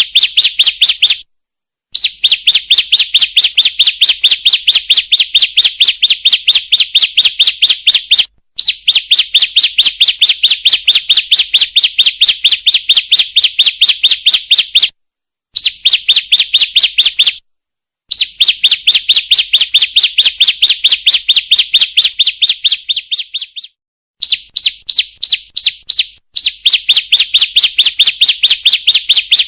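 Female bar-winged prinia (ciblek) calling, played as a bird-lure recording to attract males: long runs of rapid, evenly repeated high chirps, about four to five a second, broken by a few short pauses.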